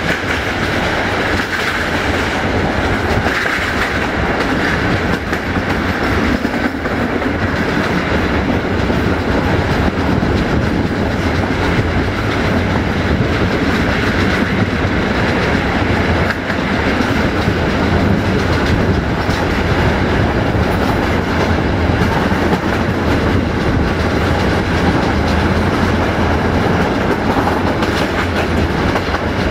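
Passenger train running, heard from on board: the steady rumble of wheels on the track.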